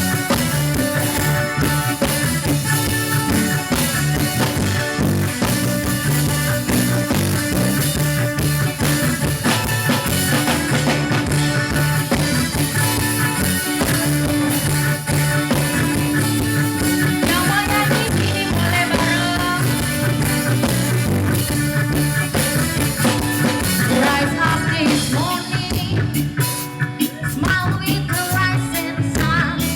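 Live band playing a reggae song, with drum kit, bass and guitar, and a singer's voice coming in over the band in the second half.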